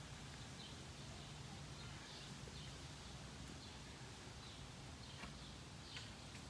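Quiet outdoor ambience with faint, scattered bird chirps now and then.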